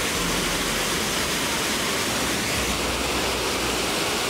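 Upper Düden Falls, a waterfall on the Düden River, giving a steady rush of falling water.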